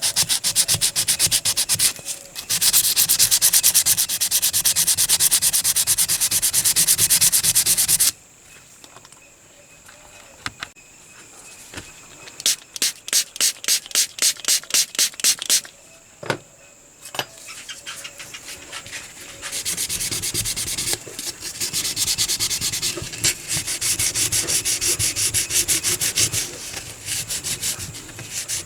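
Hand sanding or scrubbing of the metal toy car's body with an abrasive, in rapid back-and-forth strokes. The fast scrubbing stops after about eight seconds. Midway there is a slower run of separate strokes, about three a second, and the fast scrubbing returns near the end.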